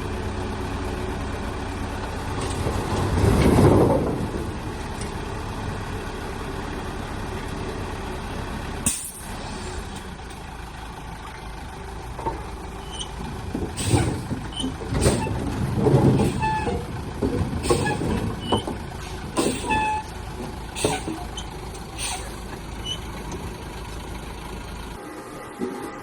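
A machine motor running with a steady hum that swells briefly a few seconds in. From about halfway on, a series of sharp knocks and clatters sounds over it.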